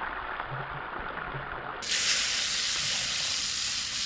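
Food sizzling in a frying pan over a campfire: a steady hiss that gets louder and brighter about two seconds in.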